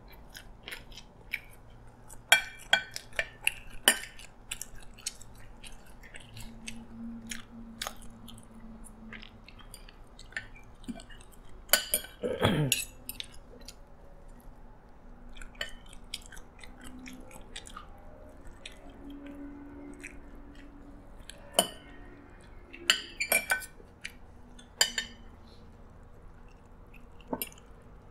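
Close-up eating sounds: chewing and mouth noises over scattered sharp clicks of a metal spoon and fork against plates. A brief sliding sound about twelve seconds in is the loudest moment.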